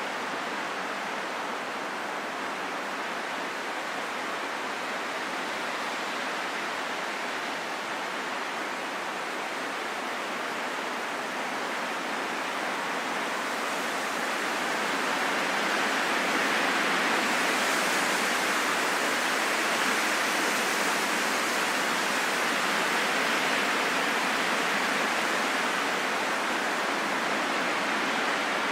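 Strong wind blowing steadily, a continuous rushing hiss that swells into a louder, hissier gust about halfway through and holds there.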